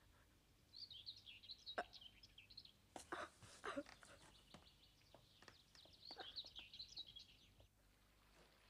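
Faint birdsong: small birds twittering in two stretches, with a few short sharp notes in between. It stops near the end, leaving a faint hiss.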